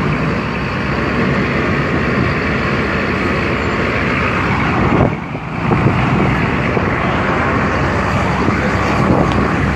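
Unlimited super stock pulling tractor's engine running loudly on a test run, freshly rebuilt after an engine failure that took out five rods and pistons. The noise drops briefly about halfway through, then comes straight back up.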